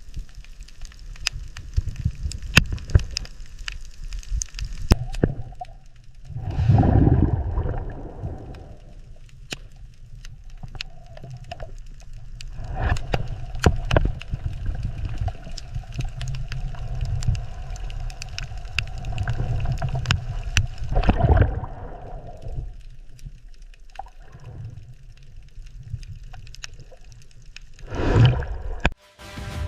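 Underwater bubbling and gurgling over a low rumble, with many scattered sharp clicks and crackles. It swells louder for a few seconds at a time, three times.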